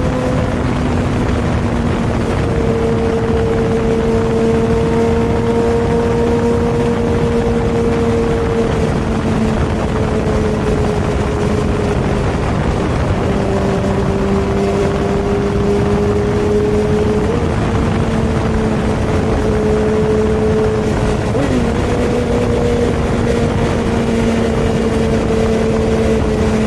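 Superbike engine running at a steady cruising speed over rushing wind, its pitch sagging and recovering a little with small throttle changes.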